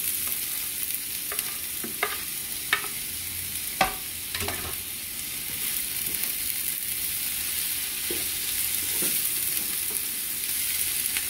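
Chopped tomatillo and sliced onion sizzling steadily in hot oil in a frying pan. A plastic spatula knocks and scrapes against the pan as the food is pushed in and stirred, with several sharp knocks in the first half and softer ones later.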